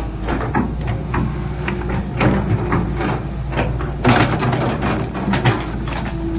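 Excavator engine running steadily, with irregular sharp metallic clanks and knocks from the machine working.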